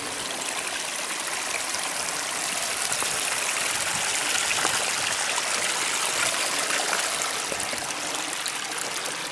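Shallow stream water running and splashing over a ford, a steady rushing hiss that grows louder toward the middle and eases off near the end.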